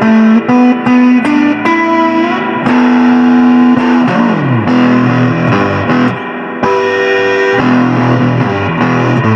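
Electric guitar played through effects with some distortion, an instrumental passage of held notes with a pitch sliding down a little after four seconds in.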